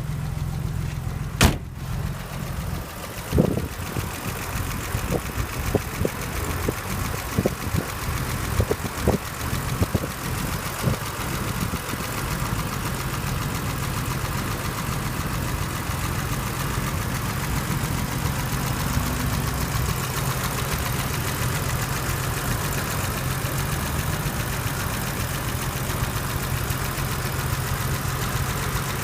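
BMW 635CSI's M30 straight-six engine idling steadily. A sharp click comes about a second and a half in, and a string of short knocks follows over the next ten seconds or so.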